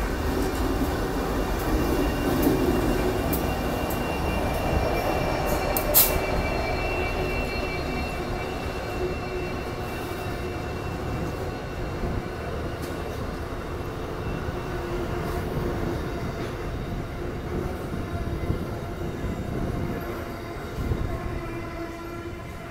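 A freight train of container wagons rolling past: a steady rumble of wheels on rail with thin steady ringing tones over it. There is a sharp clank about six seconds in, and the sound slowly fades near the end.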